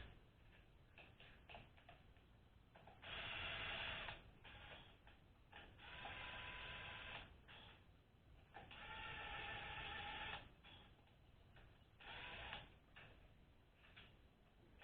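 Ratcheting inch-pound torque wrench running down valve body bolts on a 4L60E transmission, in four quick runs of rapid ratchet clicking about a second or two each, with small clicks and taps between them.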